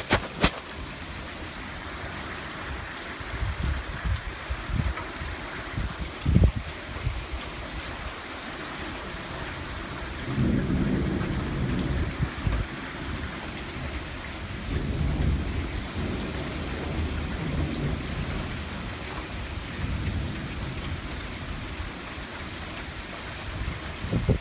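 Heavy thunderstorm downpour hissing steadily, with low thunder rumbles, the longest starting about ten seconds in, and a few short low thumps before it.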